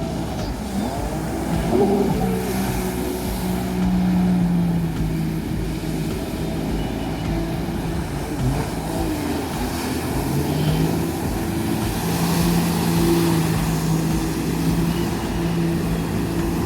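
Jet ski engine running at speed, its pitch dipping and climbing back several times as the throttle is eased and opened through turns, over a steady rush of wind and water.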